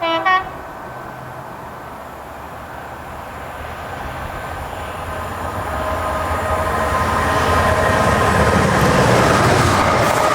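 A train horn gives a short two-note blast, then a diesel locomotive-hauled passenger train approaches, its engine and wheels steadily growing louder until it is close by near the end.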